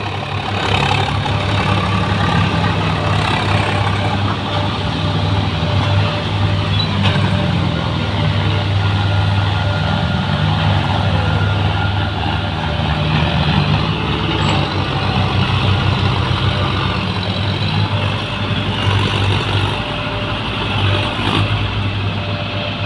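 Diesel engines of a Swaraj 744 FE and a John Deere tractor running hard in a power test. It is a steady, loud low drone whose pitch wavers up and down as the load shifts.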